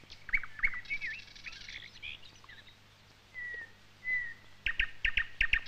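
Small birds chirping and whistling: short chirps in the first two seconds, two drawn-out whistles in the middle, then a rapid run of sharp ticks near the end.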